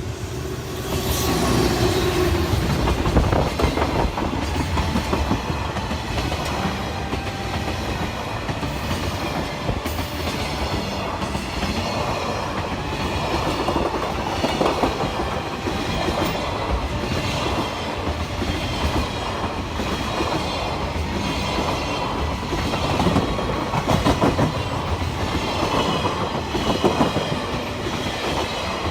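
A train passing, loud, its wheels clacking over the rail joints in a long steady run that builds up about a second in.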